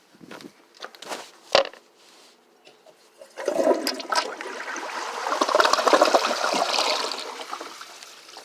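Tank toilet flushing. A few light clicks and a sharp clack come first. About three and a half seconds in the flush rushes through, is loudest in the middle, and dies down toward the end.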